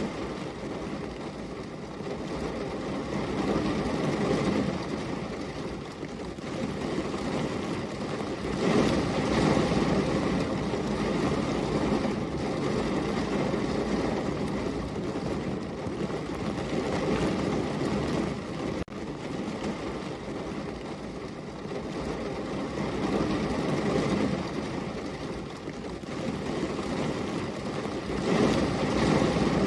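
Heavy rain falling steadily, a dense rushing noise that swells and eases every few seconds.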